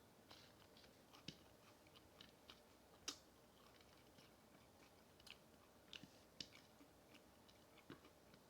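Faint close-up chewing of fried food: irregular small wet mouth clicks and light crunches, the sharpest about three seconds in.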